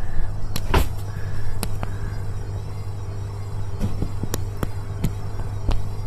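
Indesit washing machine trying to spin an unbalanced load: a steady low motor and drum hum with irregular sharp knocks from the drum, the loudest about a second in. The machine is failing to rebalance the load.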